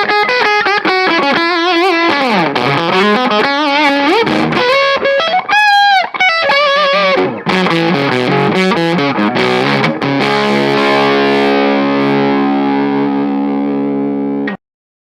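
Distorted electric guitar playing a lead of quick picked notes and string bends with vibrato, then a chord left ringing from about ten seconds in until it is cut off suddenly near the end. It is played through a pocket-size tube power amp driven by an EF95 mini pentode.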